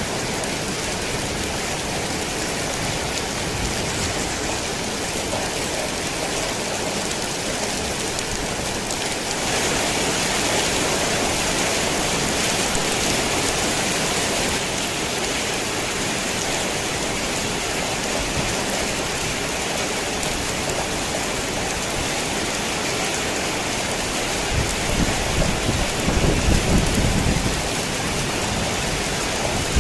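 Heavy rain falling on a worn tin roof, a steady dense hiss that swells louder for about five seconds near the middle. Low thunder rumbles in near the end.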